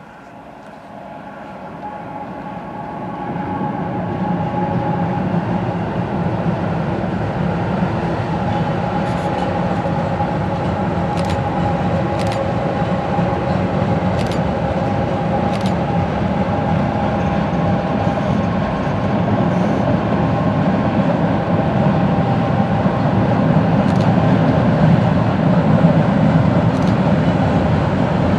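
CN freight train approaching and rolling past, getting louder over the first few seconds and then holding a steady, dense sound of wheels on rail, with a few sharp clicks along the way.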